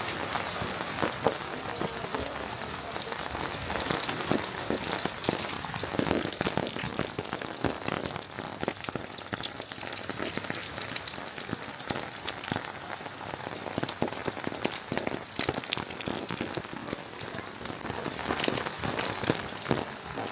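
Steady rain falling, with many sharp individual drops striking close surfaces.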